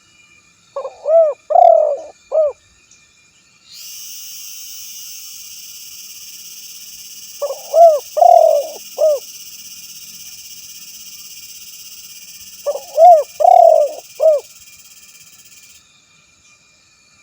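Male spotted dove (tekukur) cooing its territorial call: three phrases, each of four or five quick coos, about five seconds apart. A steady high hiss sounds behind most of it.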